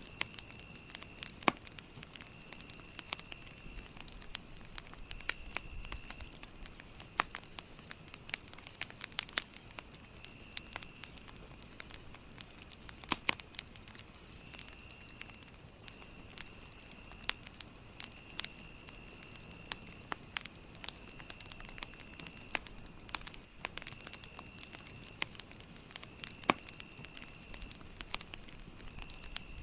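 Campfire crackling, with irregular sharp pops, a few louder ones around a third and two-thirds of the way through. Behind it runs a steady high trill, along with an even chirping about twice a second.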